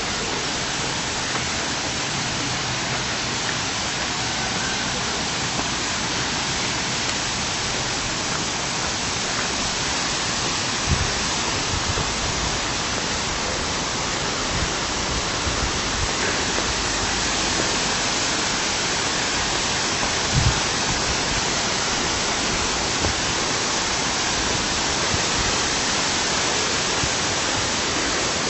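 Steady rush of falling water from a waterfall, with a couple of brief low bumps about a third and two-thirds of the way through.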